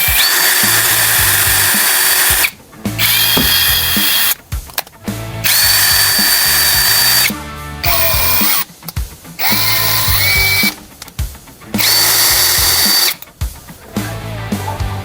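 A cordless 20 V brushless power tool is run in a series of trigger pulls, about six in all. Each time the motor spins up with a rising whine, runs steadily at a high pitch for one to two seconds, then stops, with short pauses between the runs.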